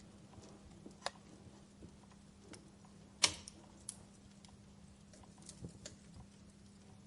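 Wood fire crackling: a quiet hiss with scattered sharp pops and snaps from burning logs, the loudest pop about three seconds in.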